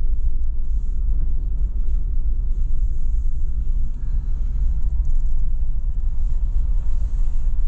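Four-wheel-drive vehicle driving along, heard from inside the cabin: a steady low rumble of engine and tyres.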